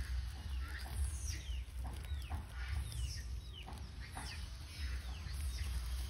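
Birds calling in short, high chirps that fall in pitch, about ten of them at irregular spacing, over a steady low rumble.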